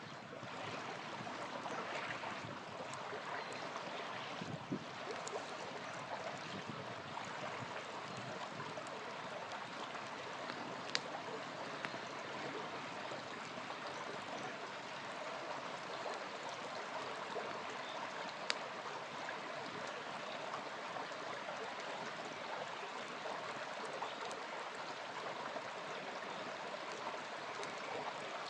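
Small river flowing steadily, with a few sharp pops from a crackling campfire. Two pops stand out, about eleven and eighteen seconds in.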